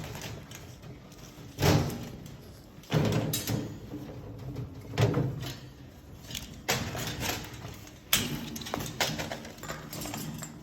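A Moluccan cockatoo beating up a small stuffed toy bird: a run of irregular thumps and knocks, about seven, a second or two apart.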